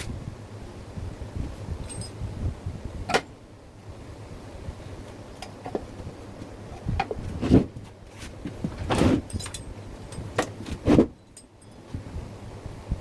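Scattered knocks and clinks of objects being handled, the loudest about midway and near the end, over a low rumble.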